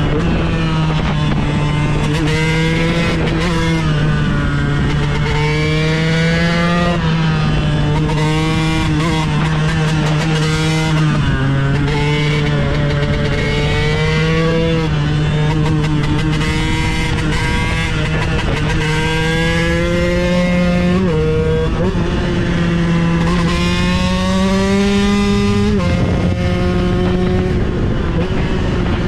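KTM 125 EXC two-stroke single-cylinder engine on a supermoto, ridden under load. The revs climb steadily and then drop sharply every four to six seconds, as with a rider shifting up through the gears.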